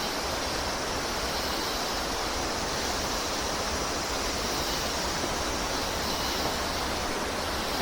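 Steady rush of flowing water from a mountain stream or cascade, an even hiss that holds without change.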